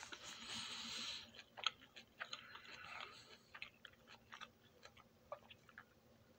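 A person chewing a mouthful of food close to the microphone. A dense chewing noise in the first second gives way to scattered short wet mouth clicks, which thin out and fade.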